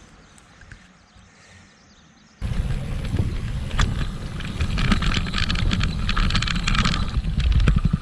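Wind buffeting the microphone on a moving bicycle, a heavy low rumble with many sharp rattles and clicks. It starts abruptly about two and a half seconds in, after a quiet stretch.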